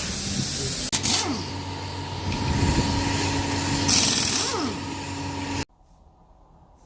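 A power tool running steadily with a whine and hiss, with a louder burst of hiss about four seconds in. It cuts off abruptly near the end.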